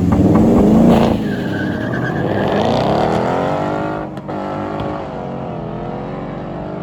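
A car engine accelerating hard, its revs climbing. About four seconds in the revs drop briefly and then climb again, as at a gear change.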